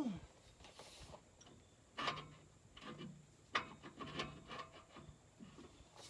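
Scattered scrapes, creaks and light knocks of a metal pry bar working at a backhoe's rear tire on its rim, opening with a short creak that falls in pitch.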